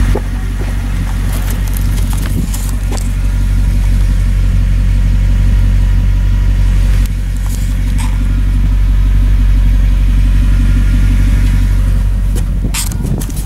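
Lexus SC400's 4.0-litre V8 running steadily through aftermarket eBay mufflers, a deep even exhaust note with no clear revving, with a few faint clicks near the end.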